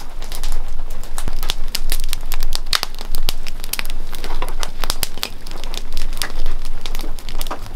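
Dense, irregular crinkling and crackling made up of many sharp clicks.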